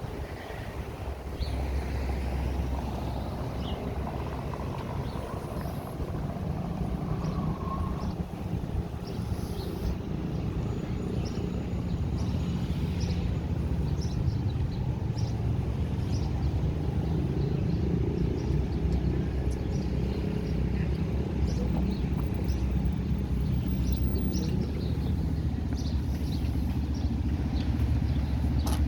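Road traffic on a city avenue: vehicles passing in a continuous low rumble that grows slowly louder through the stretch, with scattered short, high sounds above it.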